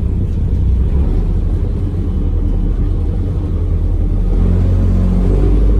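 Tour boat's engine running steadily underway, a low rumble.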